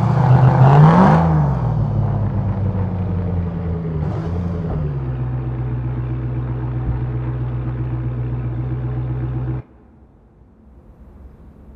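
Muscle car engine revved once, its pitch rising and falling, then settling to a steady low idle with a small blip partway through; the sound cuts off suddenly near the end, leaving a faint low rumble.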